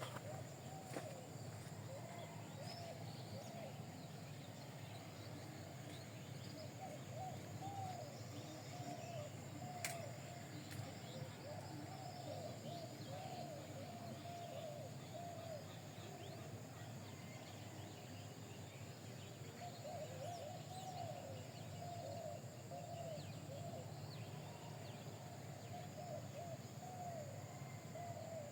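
Faint bird calls: many short, low chirping notes repeating in runs, with a lull in the middle. Under them run a steady low hum and a thin high whine, with one sharp click about ten seconds in.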